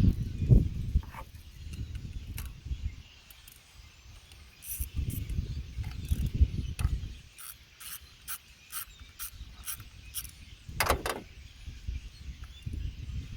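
Ratchet wrench clicking in short strokes, about two or three clicks a second, as the ignition coil hold-down bolts on a Toyota 3.5L 2GR-FE V6 are worked loose for a coil swap, with handling knocks and one sharper clunk near the end.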